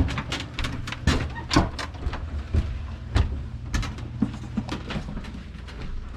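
Irregular knocks and clicks, two or three a second, from things being handled while the snow sample is set up for the microwave, over a steady low hum.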